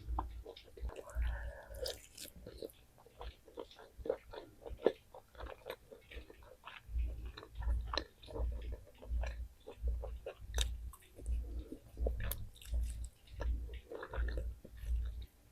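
A person chewing food close to the microphone: wet mouth clicks and small crunches over a steady rhythm of low jaw thuds, about two a second, most regular in the second half.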